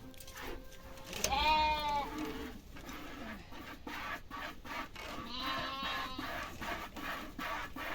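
Goat bleating twice, each call about a second long with a wavering pitch, with short clicks in between.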